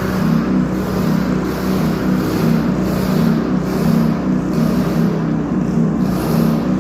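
Small engine driving a transfer pump runs steadily at throttle with an even hum, pumping liquid fertilizer into a truck's tank.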